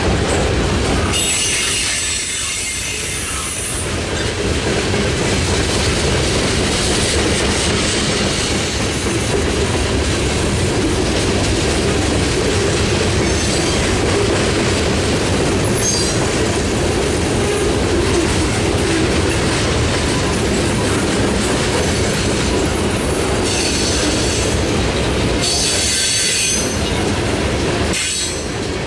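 Loaded freight cars rolling past close by: a loud, steady rumble and clatter of steel wheels on rail. A high-pitched squeal rises over it for a few seconds near the start and again twice near the end.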